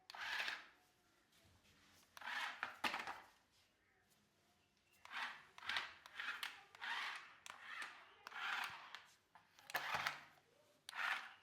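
Toy RC stunt car driven in short bursts of throttle, its small electric motor and wheels whirring about nine times, with a couple of sharp knocks.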